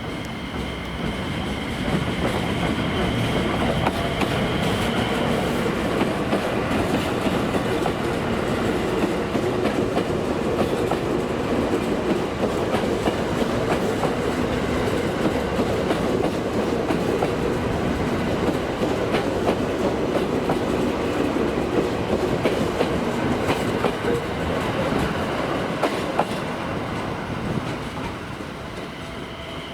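Electric train running past, a steady rumble and clatter of wheels on rail that swells over the first couple of seconds, holds for over twenty seconds, and fades away near the end.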